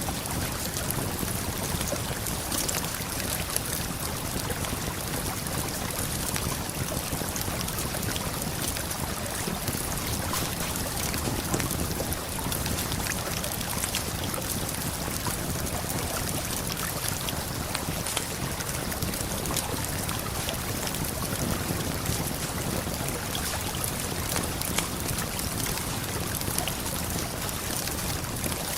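Steady rush of a river and waterfall, flowing without a break, with small crackles and pops from a campfire scattered through it.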